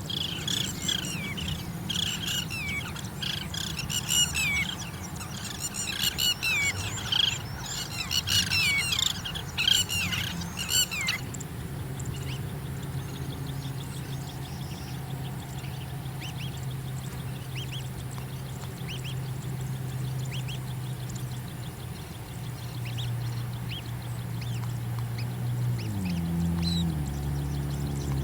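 Oriental pratincole calling: a rapid run of sharp, downward-sliding chirps that stops abruptly about eleven seconds in. A steady low hum runs underneath throughout and shifts slightly near the end, with only faint chirps after the calling stops.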